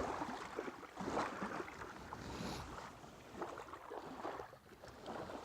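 Wind on the microphone and small choppy waves splashing at the water's edge, an irregular noise with no steady tone, slowly getting quieter.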